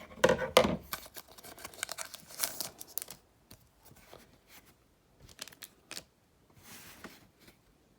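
Trading card pack wrapper being torn open and crinkled for about three seconds, followed by a few soft rustles and clicks as the cards are handled.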